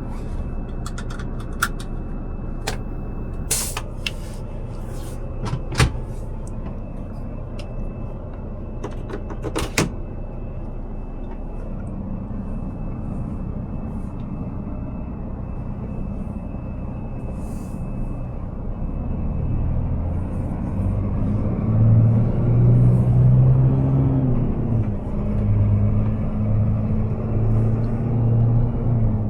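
Scania R500 truck's diesel engine idling, with several sharp clicks and knocks in the first few seconds; about two-thirds of the way in the engine note grows louder and rises under load, dips briefly and then holds steady.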